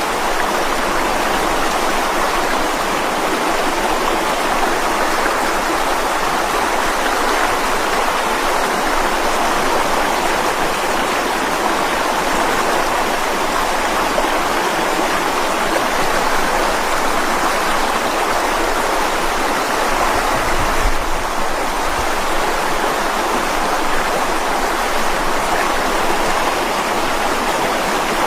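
Mountain stream rushing steadily over rocks, a continuous even wash of flowing water, with a brief low rumble about three-quarters of the way through.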